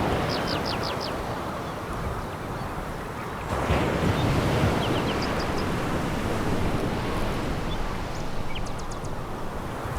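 Sea waves washing on a pebble beach, a steady rush with one wave breaking louder about three and a half seconds in. Brief clusters of high ticks come now and then.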